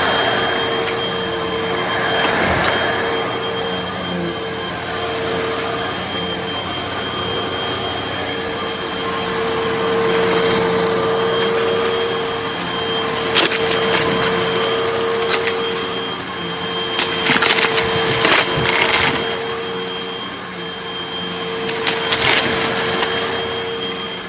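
Hoover vacuum cleaner running with a steady motor hum and a thin high whine, sucking up light, crunchy debris that crackles and rattles through it in several bursts, the busiest a little past the middle.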